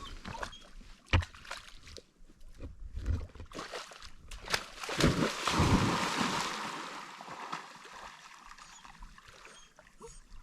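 Water splashing, loudest about five seconds in and fading away over the next few seconds, after scattered knocks and steps.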